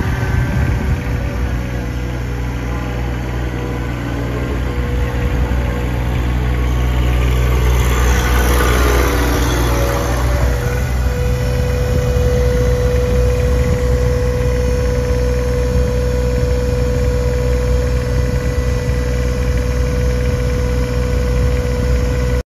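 John Deere 1026R compact tractor's three-cylinder diesel running steadily. About eight seconds in, a rush of noise swells and fades, and from about ten seconds a steady whine sits over the engine until the sound cuts off.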